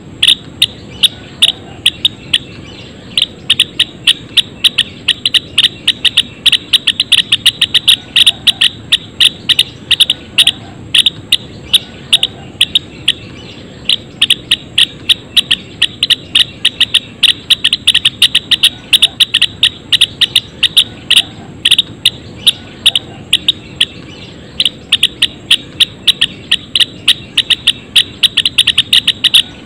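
A colony of Java sparrows calling: many short, sharp chirps in quick, irregular runs, several birds overlapping, with a few brief pauses. A steady low hum lies underneath.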